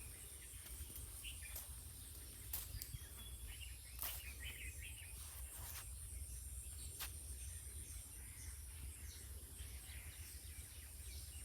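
Faint outdoor ambience: a steady low rumble with a few short chirps and several sharp clicks scattered through it.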